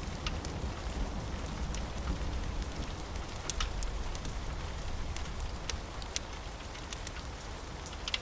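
Steady rain with a low rumble underneath, and a crackling wood fire giving scattered sharp pops and snaps.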